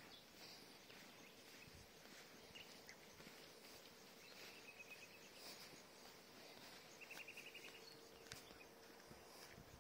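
Faint outdoor ambience with small birds calling: a few short high chirps and, about seven seconds in, a quick trill of about eight notes.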